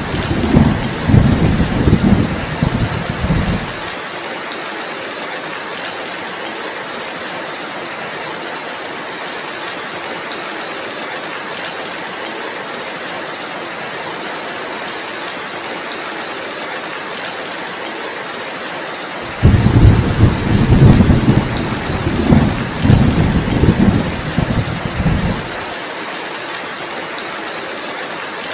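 Heavy, steady rain hissing, with two rolls of thunder: one rumbling at the start and dying away after about four seconds, and another from about two-thirds of the way in, lasting about six seconds.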